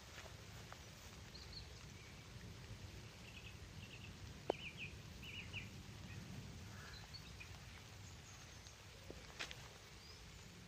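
Faint outdoor ambience with a low steady rumble and small birds giving short chirping calls around the middle. A single sharp click about four and a half seconds in, and a smaller one near the end.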